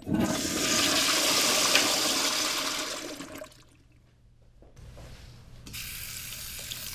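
Toilet flushing, a loud rush of water that fades out after about three seconds. After a short quiet gap, water runs more softly again and keeps going to the end.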